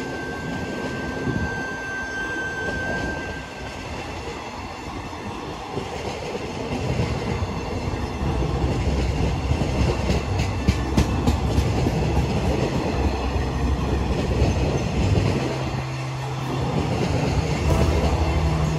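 A diesel train running along the track: a steady rumble of wheels on rail with a run of sharp clicks from the rail joints in the middle, and a low engine hum growing louder near the end.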